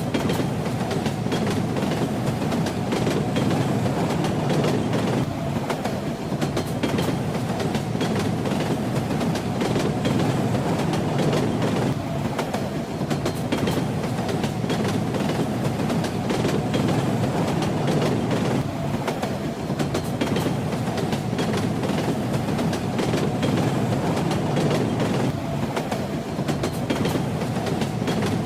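Moving train running steadily: a continuous low rumble with the wheels clacking over the rail joints.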